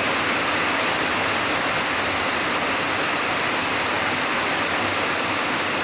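Hard spring rain pouring down in a dense, steady hiss.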